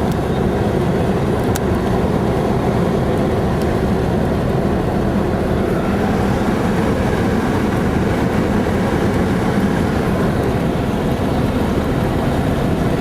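Steady low rumble and road noise of a vehicle in motion, even throughout.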